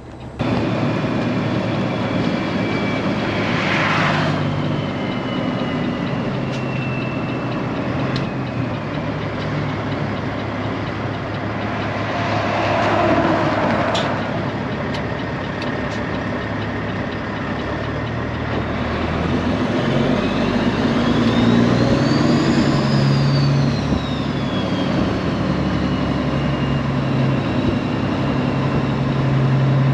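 Straight-piped Peterbilt 389 semi truck's diesel engine running as the truck gets moving, its pitch stepping up and down with the gear changes. There are short hissing bursts about four seconds in and again near the middle, and a high whine rises and falls about two-thirds of the way through.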